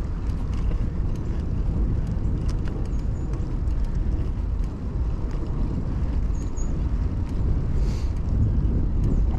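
Riding noise of a 2000 Kona Blast mountain bike: a steady low rumble of wind and tyres on the road, with small ticks and rattles from the bike. Two brief high chirps sound partway through.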